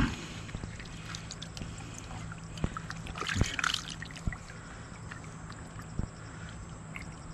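Water trickling and sloshing, with scattered sharp knocks and a brief splashing flurry about three seconds in, as fish are handled in and out of water.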